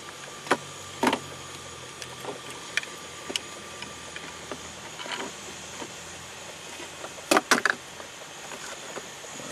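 A 2006 Mazda 3's 2.3-litre four-cylinder engine idling as a steady low hum; the engine has been diagnosed with a rod knock on cylinder one. Over it come a few irregular clicks and knocks of cables and plugs being handled, the loudest a quick cluster near the end.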